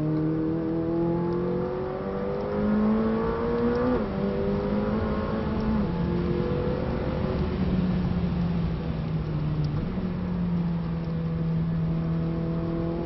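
McLaren 600LT's twin-turbo V8 heard from inside the cabin, accelerating hard with rising revs. The revs drop sharply about four seconds in as it changes up, climb again, and then settle lower and steadier as the car backs off. A steady road and tyre hiss runs underneath.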